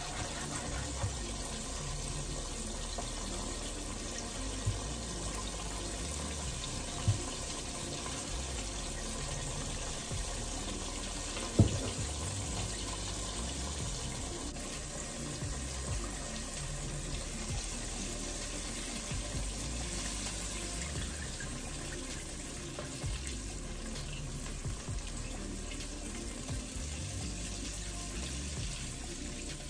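Kitchen tap running steadily into a sink, with a few sharp knocks of dishes against the sink about 5, 7 and 12 seconds in.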